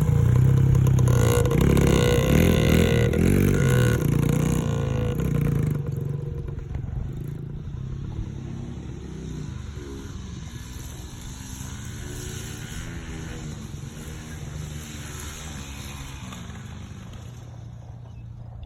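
Yamaha dirt bike engine running loud and revving up and down, then growing steadily quieter from about six seconds in as its pitch keeps rising and falling.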